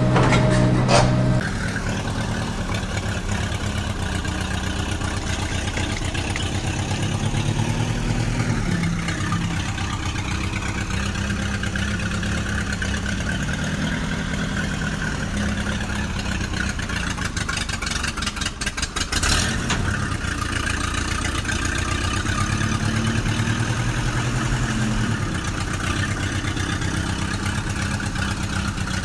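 Engine running for the whole stretch, idling with its pitch stepping up and down as it revs, with a brief clatter a little past the middle.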